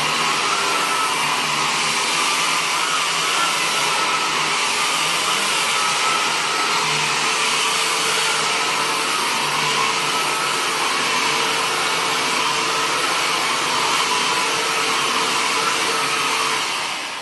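Hoover Impulse cordless stick vacuum running steadily as it vacuums a rug: a rushing hiss of suction with a steady motor whine. It begins to wind down about a second before the end.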